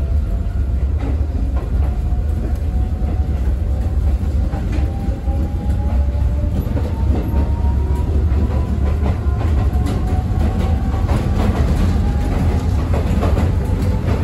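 Konan Railway Owani Line electric train heard from inside the passenger car while running: a steady low rumble with a faint whine that climbs slowly in pitch. Wheel clicks over the rail joints come thicker in the last few seconds.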